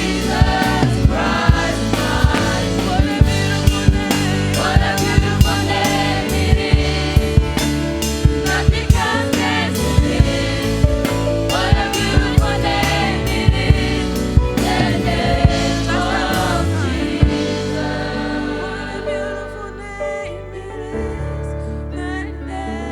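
Live worship band with a choir singing a gospel song over drum kit and keyboard. About 17 seconds in the drums drop out, leaving softer sustained keyboard chords and voices.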